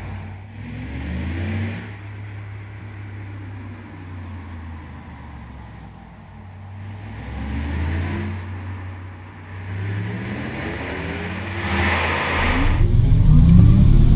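Audi R8 e-tron's synthesized electric drive sound (its 'e-sound'): a layered tone that rises in pitch like a car accelerating, swelling three times, the last and loudest near the end.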